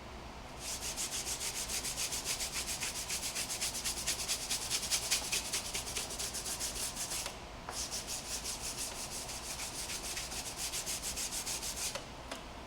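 Brisk hand scrubbing on a car during a wash, rapid back-and-forth strokes at about five a second, in two bouts with a brief pause about seven seconds in and stopping near the end.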